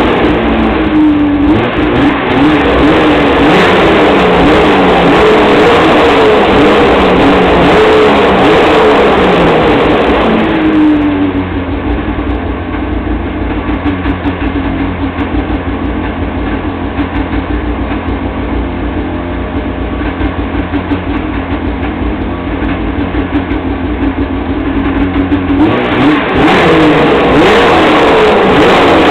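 2002 Arctic Cat ZR 800 snowmobile's two-stroke twin engine on its factory exhaust, revved up and down repeatedly for about ten seconds. It then settles into a steady, quieter idle for about fifteen seconds and is revved again near the end.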